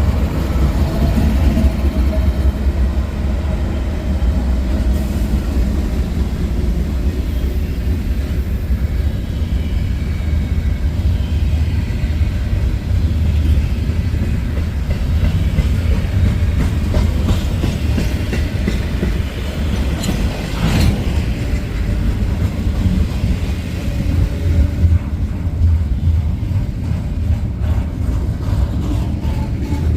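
Freight train rolling past, a steady heavy rumble of wheels on the rails with clickety-clack, and one brief sharp sound about two-thirds of the way through.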